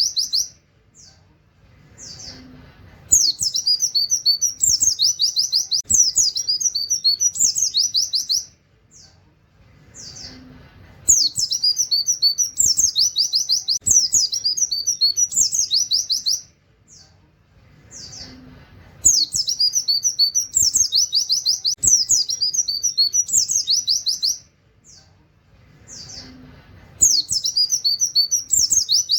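Oriental white-eye (pleci) song: fast high chattering phrases with canary-like 'wit wit' shots, in bursts of about five seconds with pauses of about three seconds between. The same burst repeats, as a looped tutor recording (masteran) for training other songbirds.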